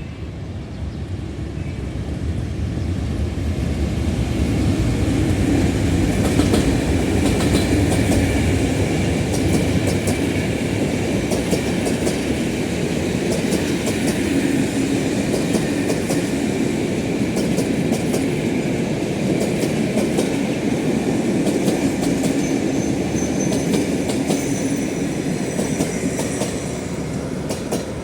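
A passenger train rolling past, its wheels clicking over the rail joints. The rumble builds over the first few seconds, holds steady, and eases near the end, with a thin high wheel squeal toward the end.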